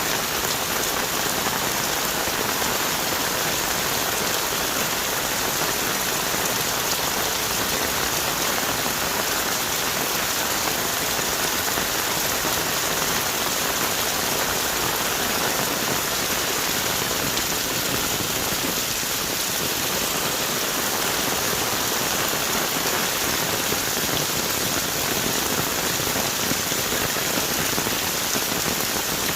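Heavy tropical rain falling steadily on rainforest trees and leaves, a dense even hiss of drops.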